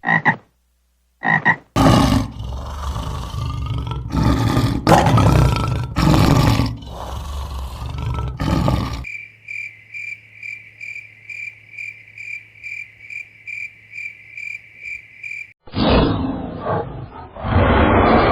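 A run of animal calls: a few short croaks, then loud roaring calls, then a steady pulsing chirp about twice a second, then more roaring.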